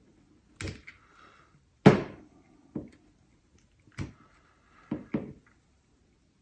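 Sharp clicks and knocks of a needle and pliers against the plastic of a metal detector's control housing, about six in all, the loudest about two seconds in, with brief scratching after a couple of them, as old O-ring washers are dug out of the knob seats.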